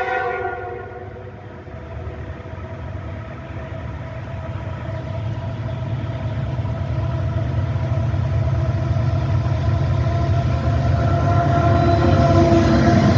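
A train horn chord cuts off right at the start. Then a diesel freight locomotive's low rumble grows steadily louder as the train approaches.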